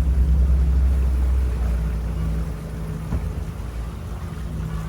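Tour boat's engine running as a steady low drone. A heavier rumble underneath eases off about two seconds in.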